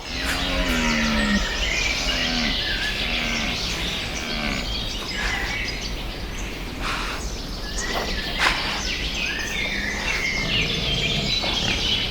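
An animal's low, mooing call: one long call near the start, then three shorter ones, over steady chirping birdsong with a few sharp clicks later on.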